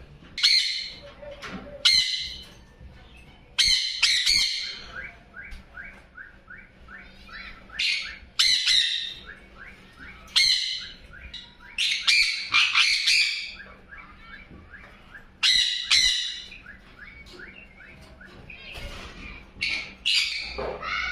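Parrots squawking: loud, harsh, high screeches repeating every second or two, with softer short chirps between them.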